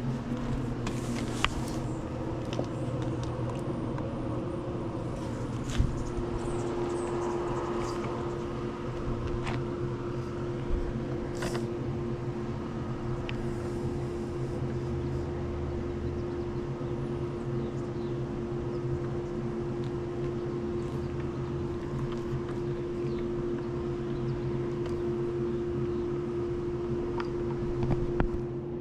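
Swimming pool pump motor running with a steady hum, with a few scattered light clicks over it.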